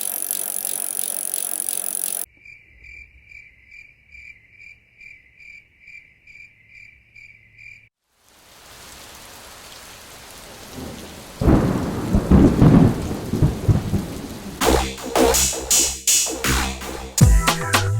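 Several sounds in turn: a loud hiss, then a quiet high beeping tone pulsing about twice a second, then a rush of noise that builds into loud low rumbling from about two-thirds of the way in, like a thunderstorm with rain.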